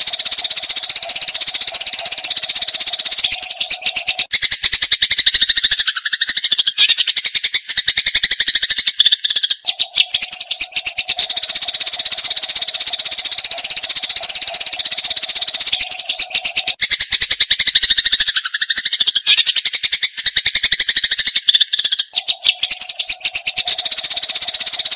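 Eurasian tree sparrows chattering in a rapid, unbroken stream of sharp high chirps, the agitated calling of fighting birds. A steady lower tone runs beneath and drops out twice, and the same passage repeats about every twelve seconds.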